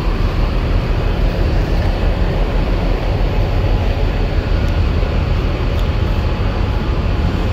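Steady, loud low rumble of a car ferry's engines and machinery.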